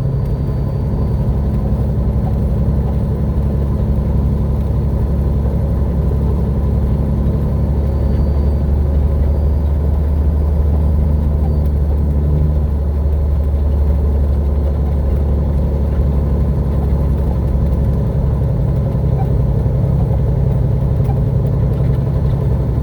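Heavy truck's diesel engine running steadily, a constant low drone heard from inside the cab.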